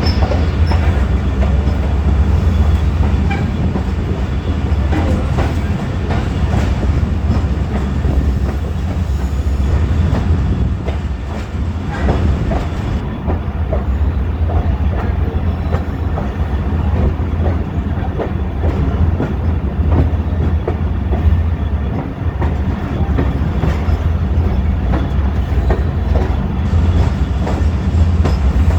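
Train noise: a steady low rumble with scattered clicks and knocks, and no let-up.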